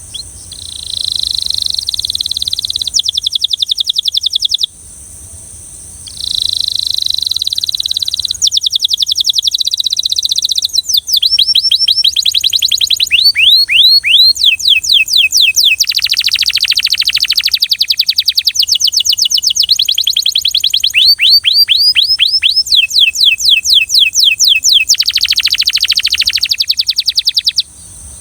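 Belgian canary singing a long song of fast trilled phrases, rapid repeated notes and falling chirps, with a pause of about a second and a half around five seconds in. A steady high-pitched hiss lies underneath.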